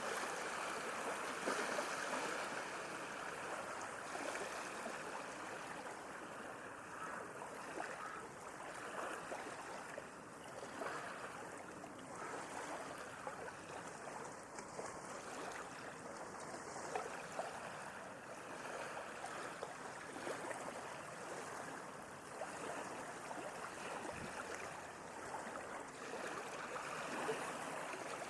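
Sea waves washing and lapping, a continuous splashing water sound that eases off and swells again near the end.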